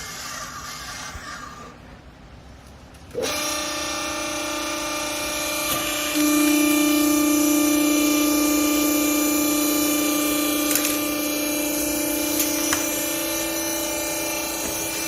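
Hydraulic baler's power pack (electric motor and hydraulic pump) starting suddenly about three seconds in, then running with a steady hum. The hum gets louder about six seconds in, and there are a few light clicks.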